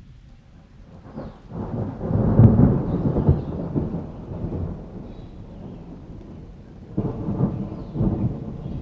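Thunder rumbling over steady rain: a loud rolling peal builds from about a second and a half in and dies away by around halfway, then a second, shorter rumble comes near the end.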